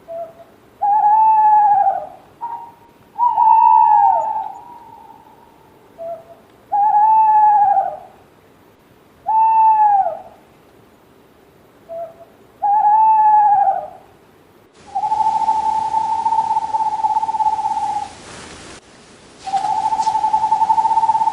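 Owl calls: a series of whistled hoots, each about a second long and rising then falling in pitch, with a short note before each, repeated every couple of seconds. Near the end a different, hissier recording brings two long, level whistled notes.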